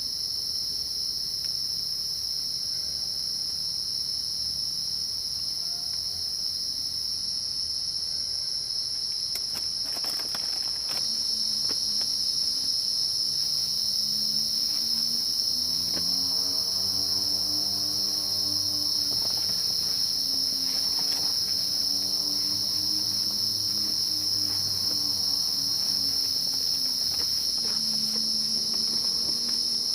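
Steady high-pitched insect chorus in the forest. About eleven seconds in, a lower humming sound joins it, its pitch wavering up and down, just after a few light knocks.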